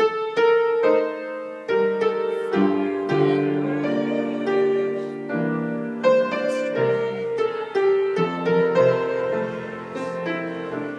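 Piano playing a slow piece of chords and melody, each note struck and left to ring; it comes in abruptly on a loud chord.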